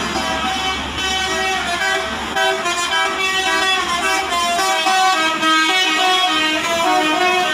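Basuri musical air horn on a truck or bus playing a tune, one pitched note after another in quick steps.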